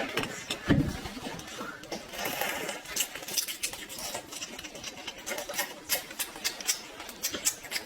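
Close-up eating sounds: fast, crisp crunching and chewing of food, a dense run of small clicks, with a louder low thump just under a second in.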